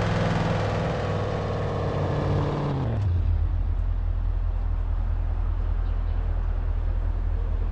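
Car running: engine and road noise falling in pitch as the car slows over the first three seconds, then a steady low engine hum.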